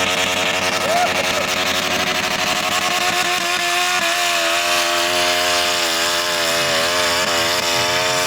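A pulling tractor's engine running hard at high, nearly steady revs, its pitch wavering slightly as it works.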